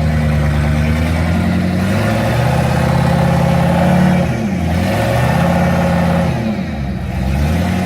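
Off-road competition truck's engine running hard at high revs. The revs dip briefly twice and climb back.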